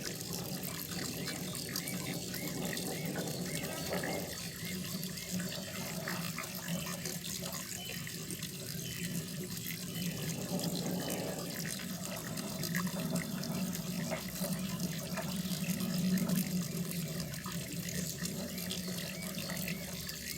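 Water running steadily into a koi pond, a continuous trickling and splashing.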